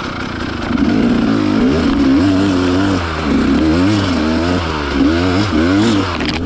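Enduro motorcycle engine revving in quick surges, its pitch rising and falling about twice a second as the throttle is worked on a steep climb.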